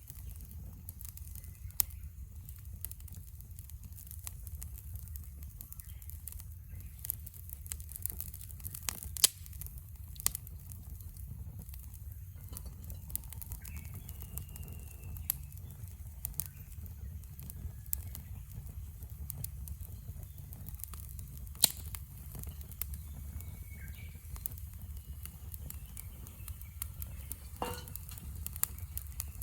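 Wood fire crackling, with sharp scattered pops and snaps at irregular intervals over a steady low rumble.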